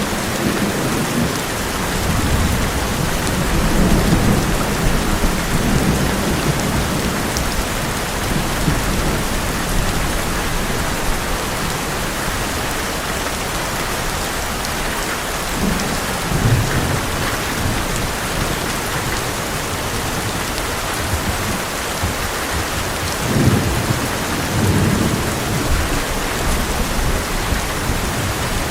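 Heavy rain drumming steadily on an old metal roof, with low rolls of thunder rumbling through it: in the first few seconds, again about sixteen seconds in, and once more near twenty-four seconds.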